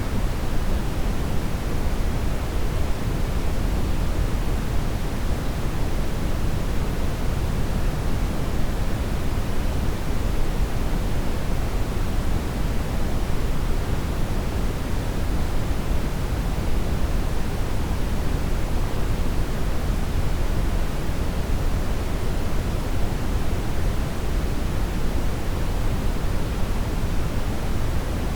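Steady brown noise: an even, deep rushing hiss with most of its weight in the bass, unchanging throughout.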